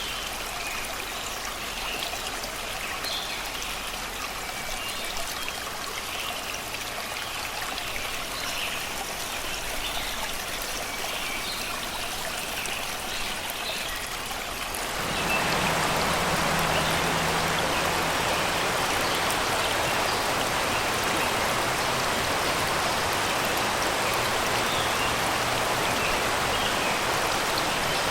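Shallow river running over rocks in a steady rush, with songbirds chirping over it. About halfway through, the water sound jumps suddenly louder and fuller, and the birdsong drops back.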